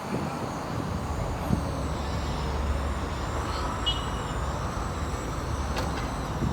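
A motor vehicle running steadily, with a low, even rumble.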